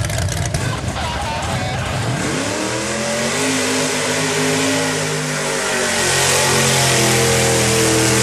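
A mud-bog truck's engine rumbling, then revving up steeply about two seconds in and held at high revs, with a loud hiss over it.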